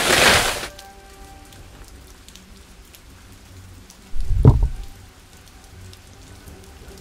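Steady rain falling, with a loud crash that fades out within the first second and a deep boom about four and a half seconds in.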